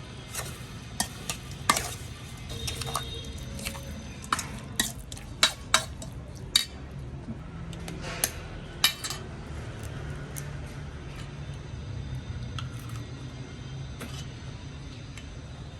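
Kitchen utensils clinking against dishes or a pan, a dozen or so sharp clinks spread over the first nine seconds, then only a few faint ones, over a steady low hum.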